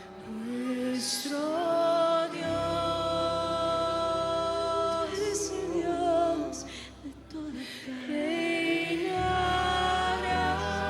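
Music: a voice singing long held notes over sustained low bass notes. The bass drops out for a moment past the middle and comes back.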